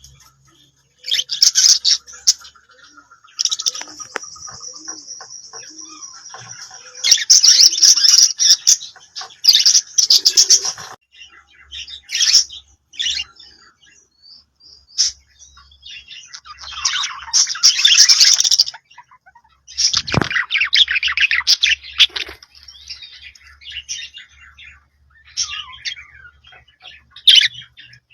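Budgerigars chirping and warbling in quick, irregular bursts of high calls, with a held high whistle a few seconds in.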